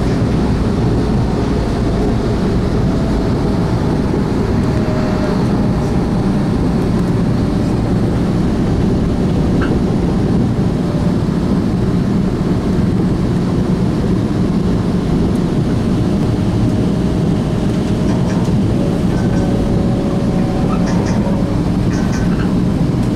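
Long Island Rail Road commuter train running at steady speed, heard from inside a passenger car: a constant heavy rumble of wheels on rail with a faint steady whine and occasional light clicks.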